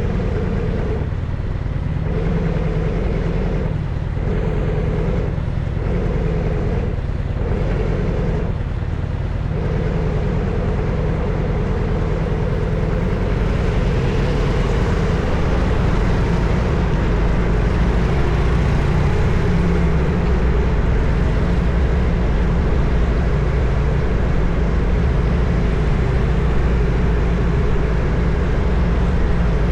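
Harley-Davidson Evolution air-cooled V-twin running under way on a city street, a steady exhaust note throughout. From about halfway through the sound grows fuller and noisier.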